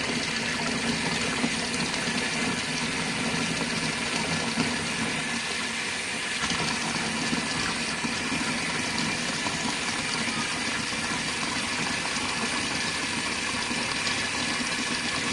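Warm water running steadily from a tap into an RV washing machine's tub as it fills for the final rinse.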